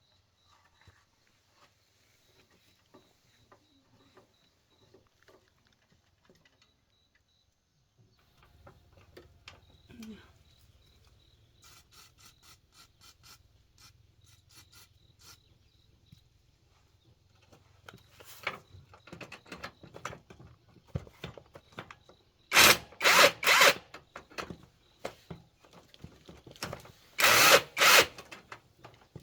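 Light clicks and clatter of tools being handled, with a low steady hum setting in about eight seconds in. Near the end a power drill runs in several short, loud bursts.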